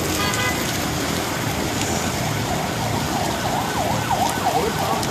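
Emergency-vehicle siren sounding a fast up-and-down wail that starts about halfway in, over the steady hiss of heavy rain and road traffic.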